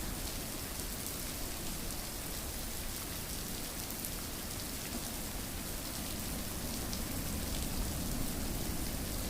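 Steady rainfall: an even hiss of rain, with individual drops pattering on a surface.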